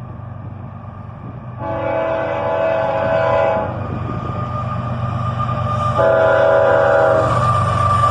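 Diesel freight locomotive's air horn, the lead GE ES44AH of an approaching CSX train, sounding two long chord blasts, the first about a second and a half in and the second about six seconds in. The locomotive's low engine rumble runs underneath.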